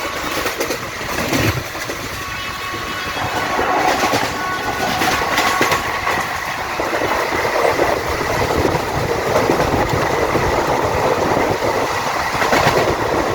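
Indian Railways train running past at speed, its wheels clattering over the rails, getting louder from about three seconds in.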